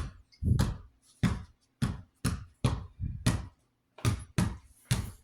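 A quick, uneven run of knocks and thuds, about two a second, as plastic box-fan parts are handled and knocked against each other and the bench.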